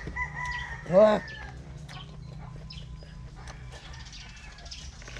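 Raw coconut heart being chewed, with many small crisp crunches. About a second in there is a short, loud, rising-and-falling 'wow'-like exclamation, and a chicken calls in the background over the first second and a half.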